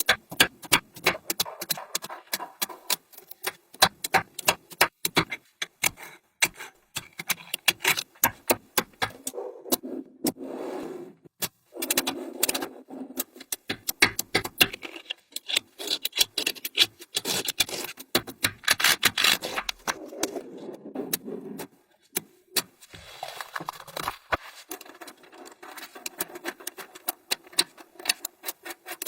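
Small magnetic balls clicking as they snap together, in quick irregular runs of sharp ticks, with softer scraping and rolling as strands of balls are pushed and shaped.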